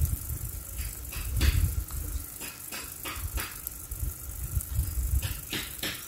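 Short, sharp bird call notes, scattered at first and then in a quick run of several a second near the end, over an uneven low rumble.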